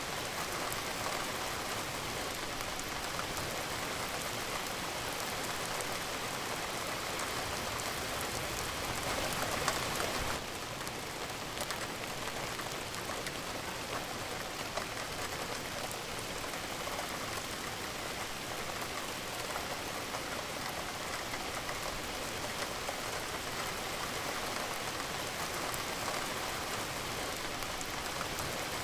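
Steady rain falling, an even hiss dotted with the ticks of single drops. It swells briefly a little before ten seconds in, then settles slightly lower and holds steady.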